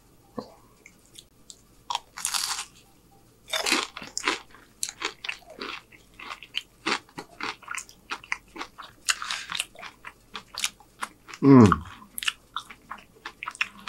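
Crunchy bites into a crisp apple pie roll, followed by close-up crunchy chewing. Two big bites land about two and three and a half seconds in, then a run of crackling chews. Near the end comes a short falling vocal sound from the eater.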